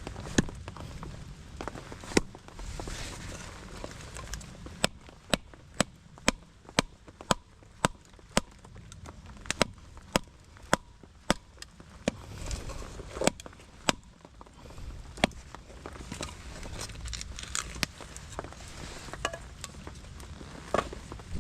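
Firewood being split by hand: a series of sharp wooden strikes, about two a second through the middle, with a few scattered blows before and after.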